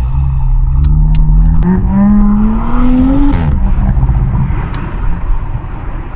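Audi S5 Sportback V6, fitted with an aftermarket downpipe and RS exhaust, accelerating hard: the engine note rises steadily for about three seconds, then drops sharply at an upshift and pulls on, heard from inside the cabin. Two sharp cracks about a second in.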